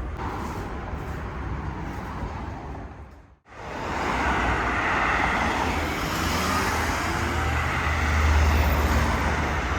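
Steady street noise with traffic, a low rumble that grows louder near the end. The sound drops out briefly about three and a half seconds in.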